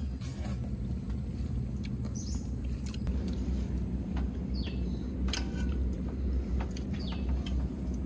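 A bird giving short falling calls, three times, with a few light clinks of spoons on metal plates over a steady low rumble.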